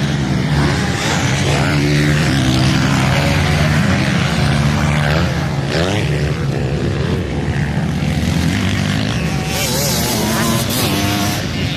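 Motocross bike engines running hard, with pitch rising and falling as the throttle opens and closes about halfway through.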